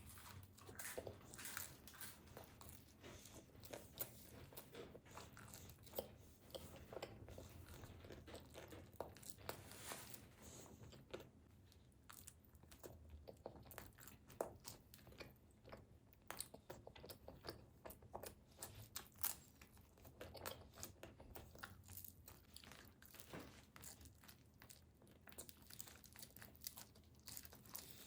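Quiet, close-miked eating of pizza: chewing and biting with crisp crust crunching, heard as a steady run of small irregular crackles and wet clicks.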